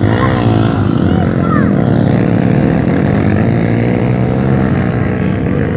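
Motocross trail motorcycle engines running loud close by as riders pass. The pitch rises and falls in the first second, then holds fairly steady.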